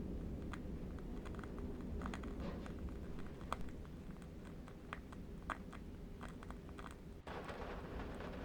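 Ambient soundscape of a low, steady wind rumble with scattered small crackles and pops from a burning candle wick. About seven seconds in the sound drops out for an instant, then a denser crackling hiss takes over.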